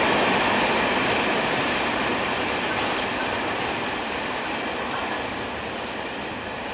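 A Taiwan Railway train running past on the line, its rail and wheel noise a steady rush that fades gradually as it moves away.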